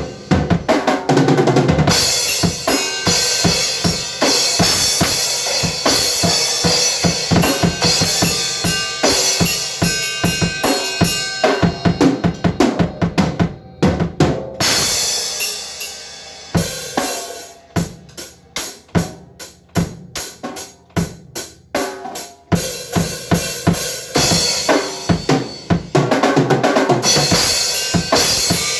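A drum kit being played freely, with bass drum and snare hits: dense, busy stretches of rapid strokes, and a sparser run of separate strikes about two-thirds of the way through.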